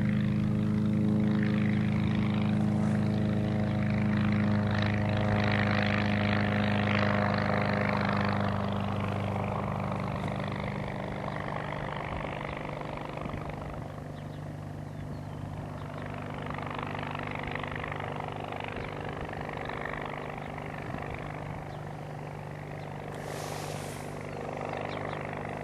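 Homebuilt aluminium ultralight aircraft's engine and propeller powered back up after a touch-and-go landing, a steady drone that grows gradually fainter after the first several seconds.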